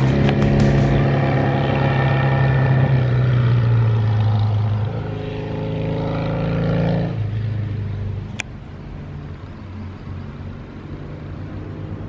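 Exhaust of a classic Japanese 650 cc vertical-twin motorcycle riding past: a loud, steady twin-cylinder note that drops in pitch partway through and falls away after about seven seconds, leaving a quieter engine sound in the distance. A single brief sharp chirp comes about eight seconds in.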